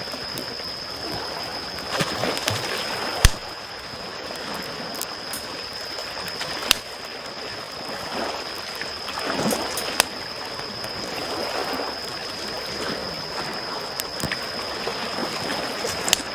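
Small waves lapping at the shore, swelling and easing, with a campfire crackling over them and giving a few sharp pops, the loudest about three seconds in. A thin steady high tone runs underneath.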